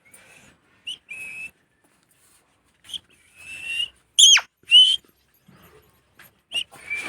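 Pet parrot whistling and calling: short high chirps and held whistled notes, with two loud sharp calls about halfway through.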